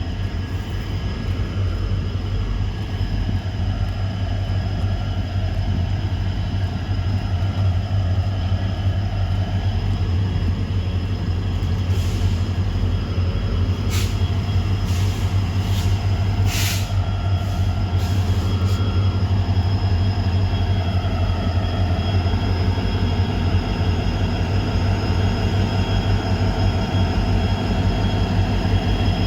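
Heavy diesel locomotive running steadily with its train, a strong low engine drone under the rumble and rattle of the rolling stock. A few brief high-pitched squeals come through about halfway in.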